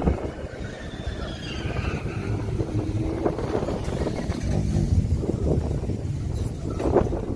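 Car engine running with a deep low rumble, with a brief louder burst about seven seconds in.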